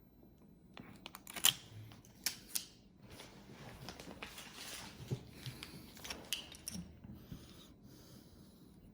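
Small hand tools being handled: scattered light clicks and taps, with some rustling in between, as screwdrivers and bits are picked through.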